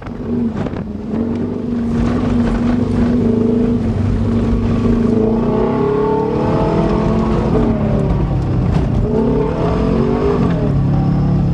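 Subaru Legacy engine revving under load while the car is driven through fresh mud. Its pitch holds steady for about five seconds, then rises and falls several times from about six seconds in.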